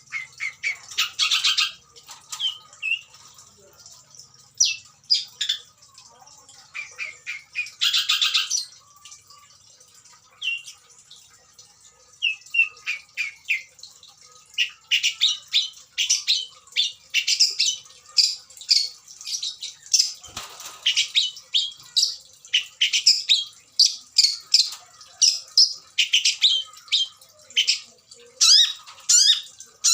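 Long-tailed shrike (pentet) singing: a run of short, harsh, scratchy notes and chatter laced with mimicked calls. The notes come in scattered bursts at first and then densely, several a second, through the second half.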